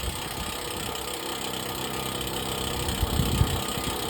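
Water truck engine idling steadily while its PTO-driven air compressor runs and builds air pressure, with a brief louder low bump about three seconds in.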